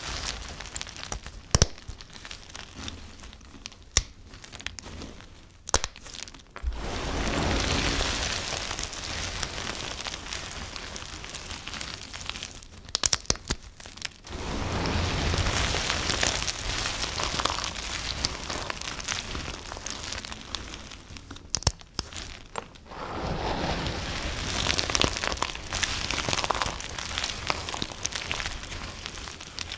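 Knife cutting through bar soap: several long stretches of dense, crisp crackling as the blade works through the soap, with sharp single clicks in between.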